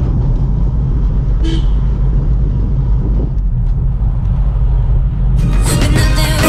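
Tata Tigor's engine pulling up a steep mountain grade in a low gear, a steady drone. Music comes in about five seconds in.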